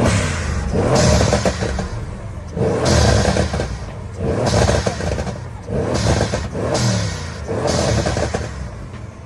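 A car engine revved hard again and again, about five rev bursts a second or so long, each dropping back toward idle before the next.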